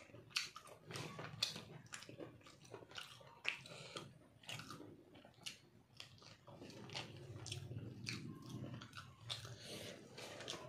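Close mouth sounds of a man eating chicken curry and rice by hand: wet chewing and lip smacks, with sharp irregular clicks about one or two a second.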